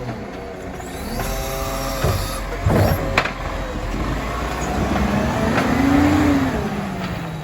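Iveco Stralis garbage truck at work: a mechanical whine, two sharp knocks about three seconds in, then the engine revving up and easing back down.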